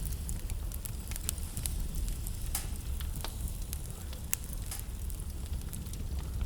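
Wood burning in a fireplace, crackling and popping in irregular sharp snaps over a steady low rumble.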